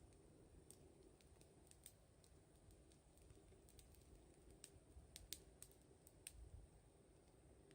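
Wood fire crackling faintly, with small sharp pops and snaps of burning firewood at uneven intervals, a few more of them together about two-thirds of the way in.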